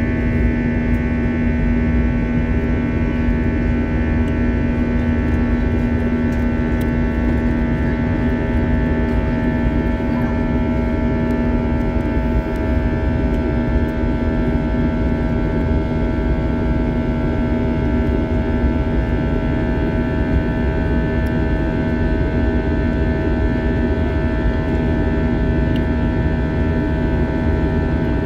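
Airbus A321's IAE V2500 turbofan engines heard inside the cabin: a steady jet drone with a strong low hum and several steady whining tones over an even rush of air.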